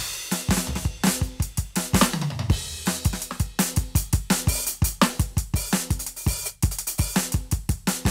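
Roland TD-17KVX electronic drum kit played through its sound module: a steady groove of kick, snare, hi-hat and cymbals, with a fill that falls in pitch about two seconds in.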